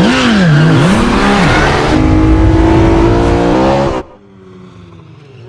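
Car engine revving hard in a movie car chase, its pitch swinging up and down, with tyre noise. The sound cuts off abruptly about four seconds in, leaving a much quieter stretch.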